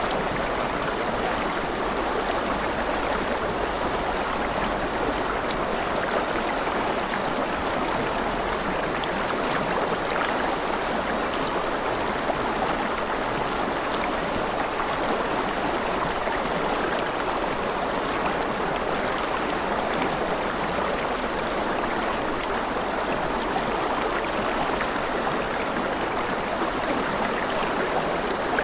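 Rushing river water flowing over rocks, a steady, even rush with no changes.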